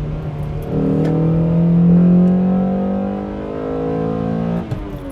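Honda Accord Euro R CL1's H22 four-cylinder VTEC engine, intake resonator removed, pulling under acceleration. Its note climbs steadily for about four seconds, then drops as the throttle is lifted near the end.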